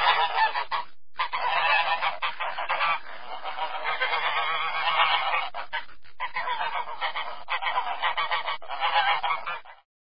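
Goose honking over and over in a dense run of calls, with short breaks about a second in and about six seconds in.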